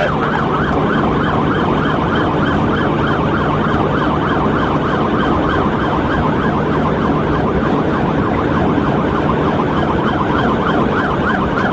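Police cruiser siren in a fast yelp, its pitch sweeping up and down about three times a second, over steady road and engine noise during a highway pursuit.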